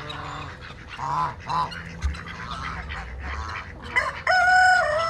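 Farmyard ducks and geese calling with short honks and quacks. About four seconds in, a long, steady, pitched call begins: a rooster starting to crow.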